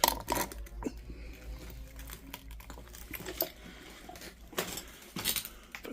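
Scattered light clicks and knocks of small objects being handled, with a sharper knock just after the start and a few more near the end.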